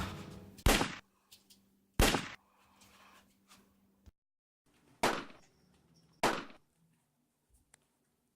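Four sharp, loud bangs, each with a short fading tail, the first two about a second apart and the last two about a second apart after a longer gap.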